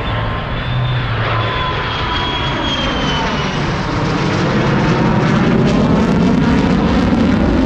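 Airplane engine flying past, a dense engine noise with a whining tone that glides slowly in pitch, getting louder in the second half.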